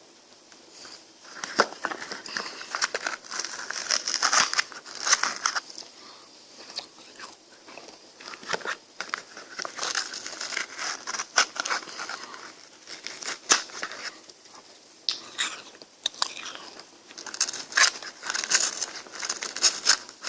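Close-miked eating of a frozen ice cream: repeated crunchy bites and chewing with sharp wet clicks, coming in clusters with quieter pauses between them.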